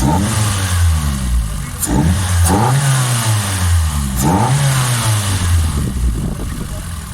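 A 1988 Toyota Corolla's freshly rebuilt four-cylinder engine revving several times, its pitch climbing and dropping about four times before settling lower near the end.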